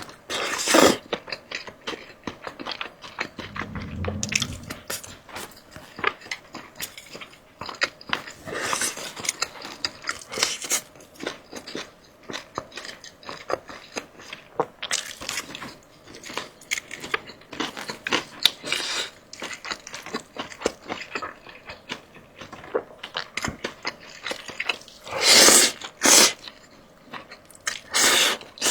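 A person eating crunchy food close to the microphone: repeated crisp crunching and chewing. A few louder bites stand out, near the start, about 9 and 15 seconds in, and twice near the end.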